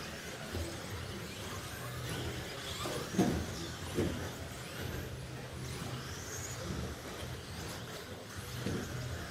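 Electric RC stock trucks (Traxxas Slash class) racing, motors whining up and down in pitch over the running noise. A sharp knock comes about three seconds in and a smaller one a second later.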